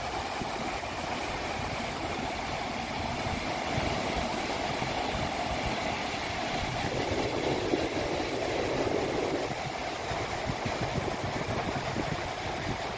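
Sea wind buffeting the microphone over the steady wash of ocean surf, with an engine-like drone beneath. A louder swell of noise rises about seven seconds in and fades about two seconds later.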